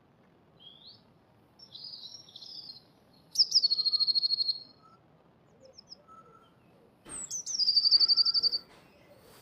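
Blue tit singing twice: each phrase opens with a few high, thin notes and runs into a fast, even trill, with softer chirps before the first one.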